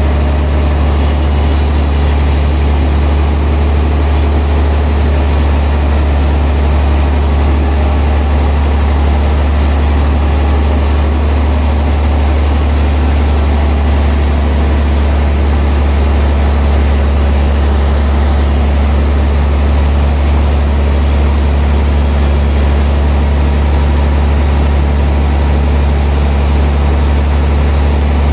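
Sawmill machinery running with a loud, steady low hum that does not change.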